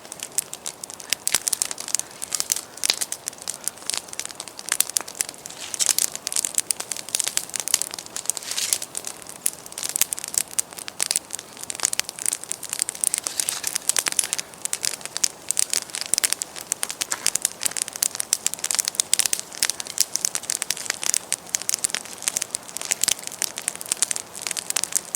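Campfire of damp, rotten firewood crackling steadily, with many sharp irregular pops over a soft hiss.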